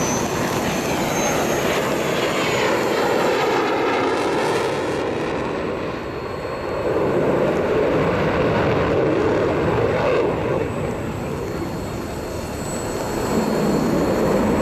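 Jet engine of a Mitsubishi F-2 fighter, its single turbofan running loud and continuous, with a whooshing sweep in pitch about 2 to 5 seconds in as the aircraft passes.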